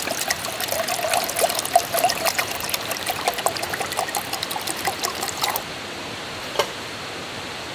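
Water poured into a narrow-mouthed container, splashing and trickling, and stopping about five and a half seconds in.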